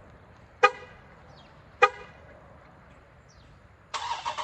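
A car horn chirps twice, short and about a second apart, like a lock or alarm chirp. Near the end the car's engine is being started.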